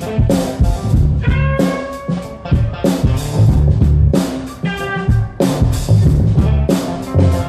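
Live blues-rock band playing during a sound check: electric guitar holding and bending lead notes over a drum kit and bass.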